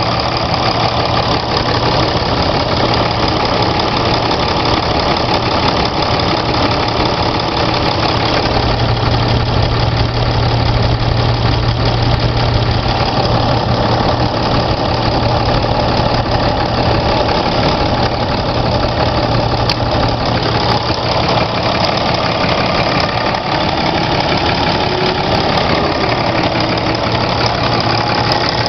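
2010 Ram 2500's 6.7-litre Cummins turbo-diesel inline-six idling steadily, with no revving.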